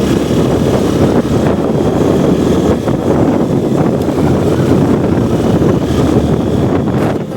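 Motorcycle on the move: engine running with heavy wind rushing over the microphone, steady throughout.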